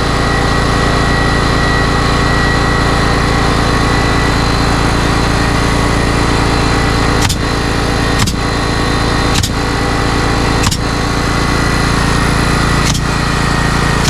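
A small engine runs steadily at a constant speed, with five sharp knocks over the second half, spaced a second or two apart.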